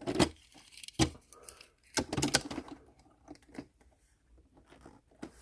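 Clicks and clatter of die-cast toy cars and plastic track parts being handled, a few sharp knocks about a second apart, then lighter ticks.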